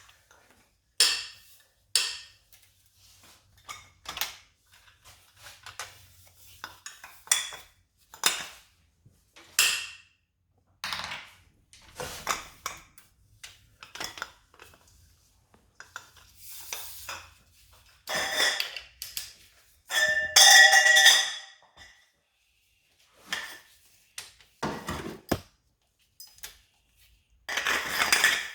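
Metal tools and engine parts clinking and knocking against each other during hands-on engine work: irregular sharp clinks, with a louder ringing metal clatter about two-thirds of the way through.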